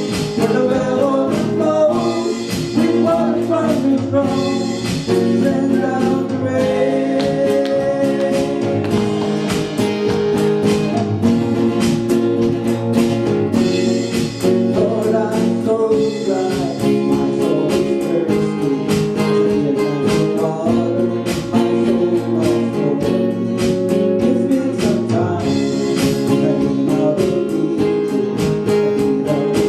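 A gospel song sung by a male voice to guitar accompaniment, continuous throughout.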